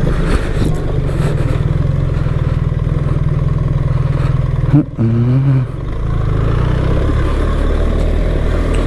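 BMW R 1300 GS boxer-twin engine running steadily as the motorcycle rides, with a brief break and a short rise and fall in engine pitch about five seconds in, then a lower, steady note.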